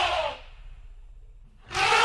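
An animal calling twice: a harsh, pitched call that rises and falls, ending shortly after the start, then a second one beginning near the end.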